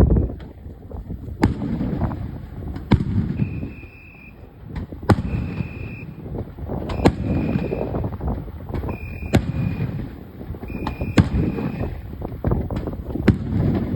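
Aerial fireworks shells bursting in a rapid barrage: sharp bangs every second or two, each followed by rumbling echoes. A short high steady beep repeats about every two seconds through the middle of the barrage.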